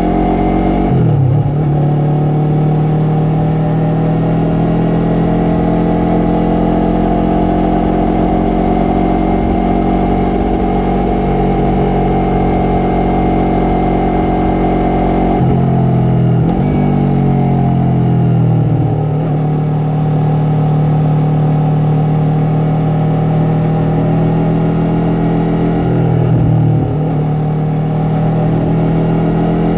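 Yamaha MT-03's parallel-twin engine and exhaust under way, holding a steady pitch. Three times (about a second in, around the middle, and near the end) the engine speed drops sharply and then climbs back.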